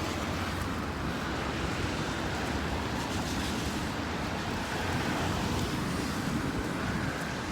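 Steady noise of strong wind and city traffic on a rain-wet street, with gusts rumbling on the microphone.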